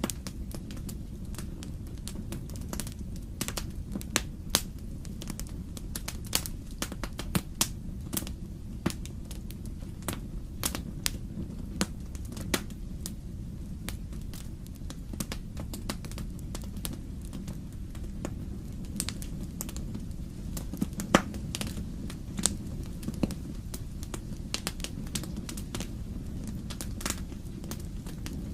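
Wood fire crackling in a fireplace: irregular sharp snaps and pops over a steady low rumble, with one louder pop about two-thirds through.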